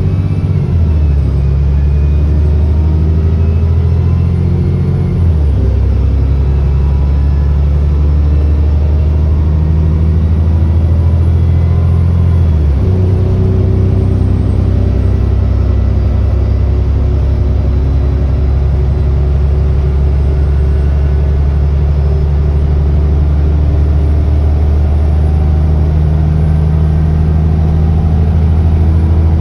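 ADL Enviro400 double-decker bus engine running under way, a steady low drone whose note changes twice, about five seconds in and again near thirteen seconds. A faint high-pitched turbo whine rises and falls above it.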